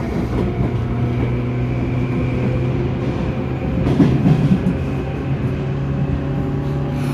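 Electric train set 9204F running, with a steady low motor hum, a fainter high whine and rail rumble, and a brief louder rattle about four seconds in. It is running normally, without abnormal noise.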